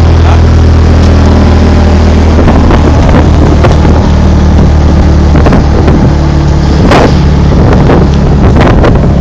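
Diesel-engined wood chipper running steadily with a loud, even low hum and a noisy rush, broken by several sharp cracks.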